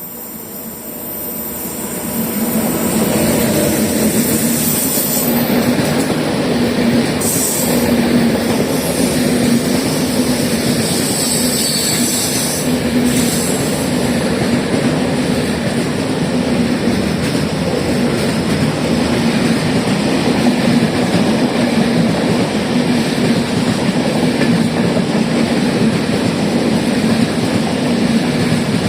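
Train running past close by: the rail noise builds over the first few seconds, then stays loud and steady with clickety-clack of the wheels and a steady hum. Brief high wheel squeals come about 7 and 12 seconds in.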